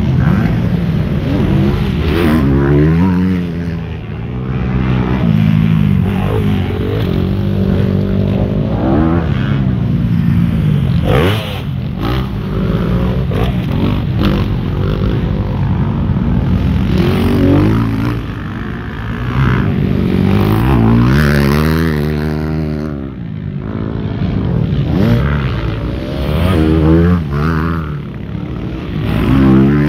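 Motocross bike engines running and revving, their pitch rising and falling over and over, with several engines overlapping.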